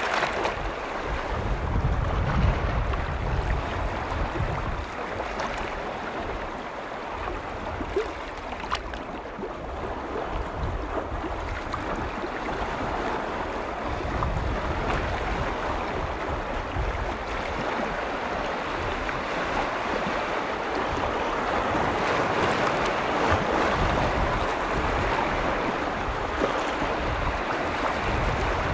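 Waves washing in on a large lake's shore, a continuous rushing wash. Wind buffets the microphone as a low rumble that swells now and then.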